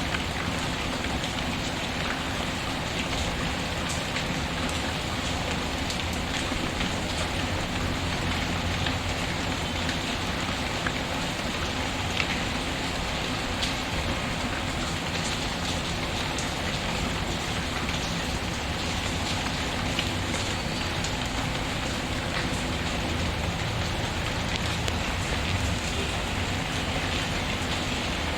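Steady rain falling, an even hiss, mixed with a wood fire in a fireplace; a few sharp crackling clicks stand out, about ten seconds in, twelve seconds in and near the end.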